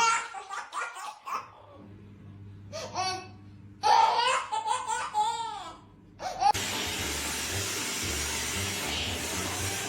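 A person laughing in bursts, loudest about four to six seconds in. About six and a half seconds in it cuts off, and a steady hiss with a low pulsing beat takes over.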